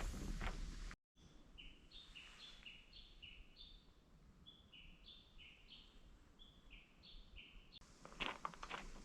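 A small songbird singing faintly, a string of short high notes, each pair stepping down in pitch, repeated over several seconds. Footsteps crunching on the ground are heard in the first second and again near the end.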